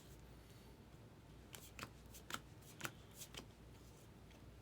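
Baseball trading cards being handled and flipped through, giving a quick run of about six faint, sharp card snaps from about a second and a half in, over a quiet steady hum.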